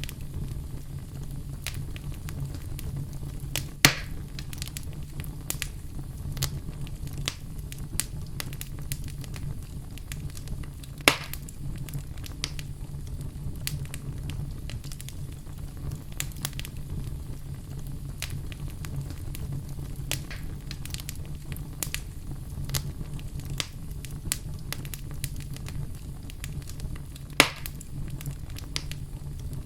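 Wood fire burning in a fireplace: a steady low rumble with scattered crackles and three loud pops, about 4, 11 and 27 seconds in.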